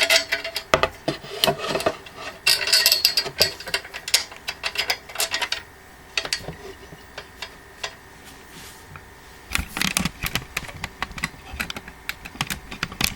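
Quick clicks, taps and knocks of metal parts and screws being handled against wooden panels during assembly of a steel-and-wood printer stand. They come in a busy spell, thin out for a few seconds in the middle, then pick up again near the end.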